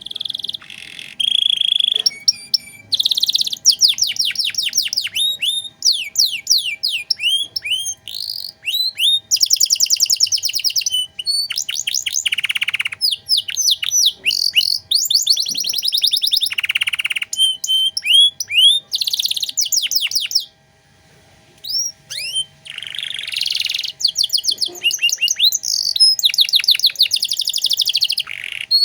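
Domestic canary singing a long, varied song of rapid trills and rolls, built from fast series of quick downward-sweeping notes and buzzy phrases, with a short break a little past two-thirds through.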